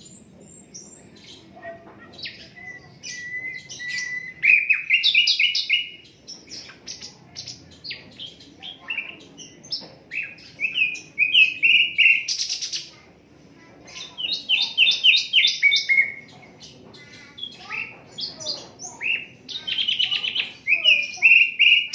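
A sikatan londo flycatcher singing: phrases of quick, high repeated notes and short slurred whistles, with brief pauses between phrases.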